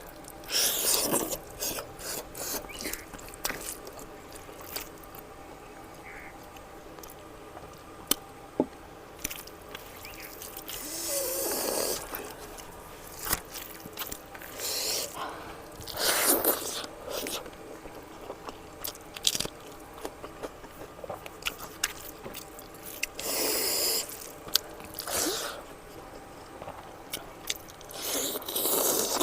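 Close-miked eating sounds: chewing and wet mouth clicks and smacks of someone eating mutton fat curry, broken by several louder breathy bursts lasting about a second each.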